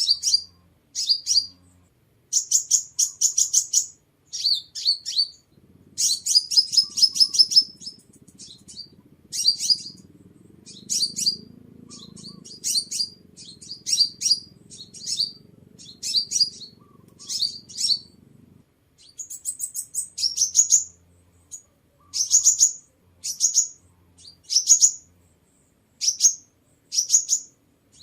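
A sunbird calling: a fast run of short, high, sharp chip notes about one or two a second, broken by quicker trilled bursts.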